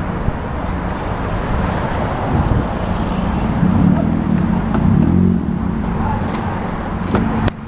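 Honda Civic engine running through an exhaust with the muffler deleted, a steady low exhaust note that swells a little in the middle. A couple of short clicks come near the end.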